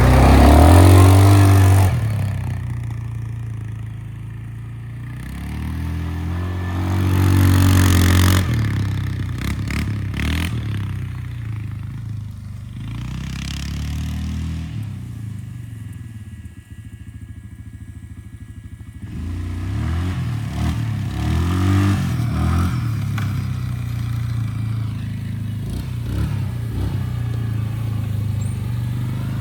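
Small motorbike engine running and being revved up and down as it is ridden. It is loudest near the start and again about seven seconds in, eases off for a few seconds past the middle, then picks up again.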